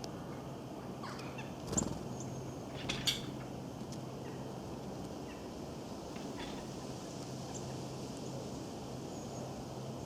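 Birds calling outdoors: scattered short high chirps over a steady background hiss and low hum, with two brief louder calls or rattles about two and three seconds in.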